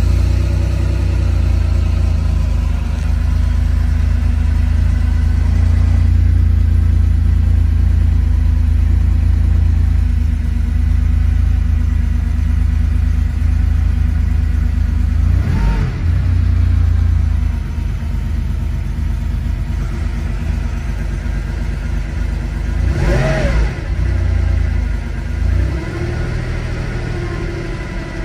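1986 Porsche 911 Carrera's air-cooled 3.2-litre flat-six idling just after a cold start, heard from inside the cabin. The throttle is blipped briefly twice in the second half, the engine note rising and falling back each time.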